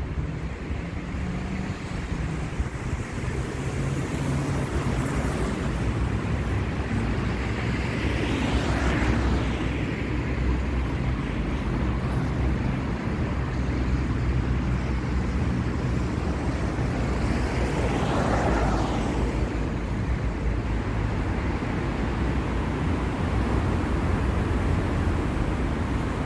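City street traffic: a steady low rumble of engines and tyres, with two vehicles passing close by, one about nine seconds in and another about eighteen seconds in, each rising and fading away.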